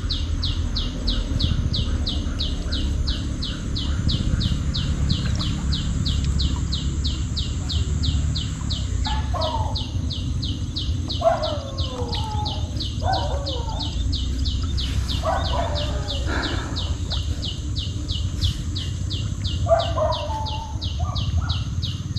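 Rural waterside ambience: a high chirp repeating evenly about three times a second throughout, with a few lower bird calls in the middle and again near the end, over a steady low background rumble.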